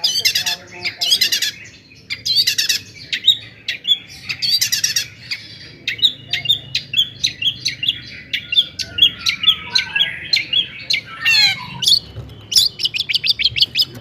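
Long-tailed shrike (cendet) singing a varied song: harsh, buzzy chattering phrases in the first few seconds, then a string of short, sharp notes, and a fast run of quick notes near the end.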